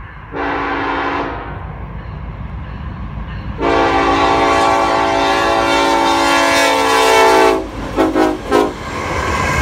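Lead locomotive's air horn on an EMD SD70ACe: a one-second blast, then a long blast of about four seconds, then a few quick short toots, over the low rumble of the approaching freight train, which grows louder near the end.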